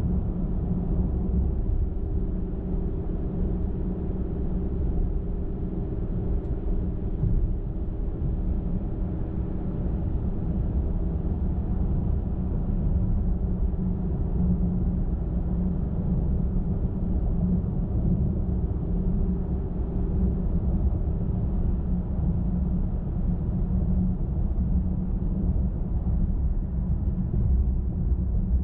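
A car driving steadily at highway speed: constant low tyre and road rumble with engine drone, and a faint steady hum that fades out about three quarters of the way through.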